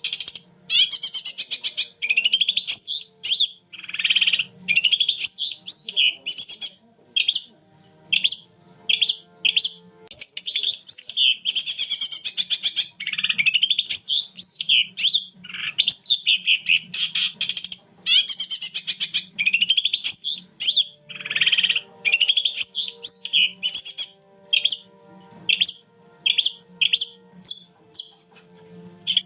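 A long-tailed shrike (cendet) singing in full voice. It gives rapid, varied, high-pitched chattering and trilling phrases in bursts of one to a few seconds, with short pauses between them.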